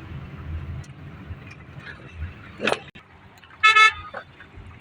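A vehicle horn gives one short toot a little past the middle, the loudest sound, over the low rumble of a car driving on the road. Just before it comes a brief rising sweep.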